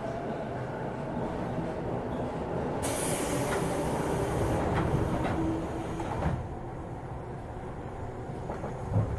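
Interior running sound of a JR 205-series electric train's motor car: a steady rumble of wheels on rail with a few rail-joint clicks. A hiss comes in about three seconds in and cuts off suddenly about three seconds later, and there is a single knock near the end.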